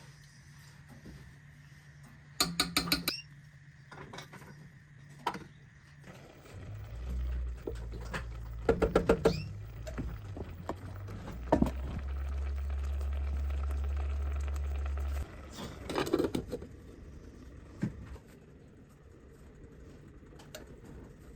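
Kitchen work sounds: scattered clatters and knocks of cookware and utensils being handled. A low steady hum runs through the middle and cuts off suddenly.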